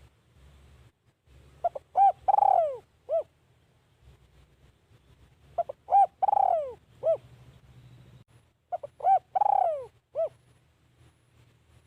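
Spotted dove cooing: three phrases about three and a half seconds apart, each a few short coos around one long, falling coo, the dove's typical song.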